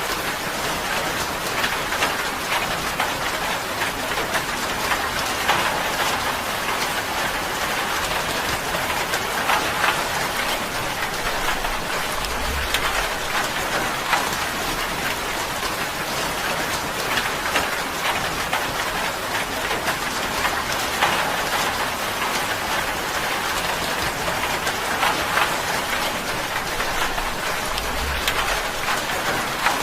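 Steady rain falling on a tin roof, a dense patter of drops with heavier drips striking the metal every few seconds.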